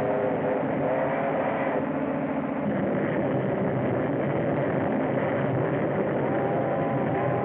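A vehicle running steadily: a continuous heavy rumble with a wavering whine above it, heard on a narrow, old film soundtrack.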